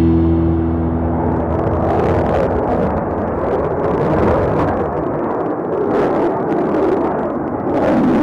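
Aircraft engine noise: a loud, steady rushing roar, with the last held notes of music fading out in the first second.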